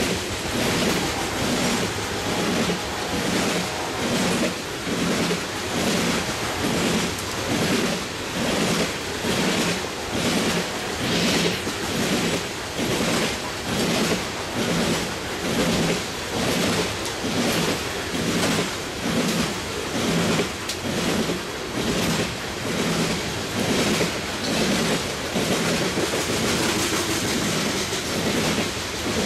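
Loaded coal hopper cars rolling past, their wheels clicking over the rail joints in a steady clickety-clack roughly once a second over a continuous rumble.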